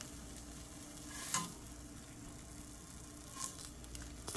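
Cheese cubes frying in oil in a pan, a soft steady sizzle, with two brief clicks of a fork against the pan as pieces are lifted out, about a second in and again near three and a half seconds.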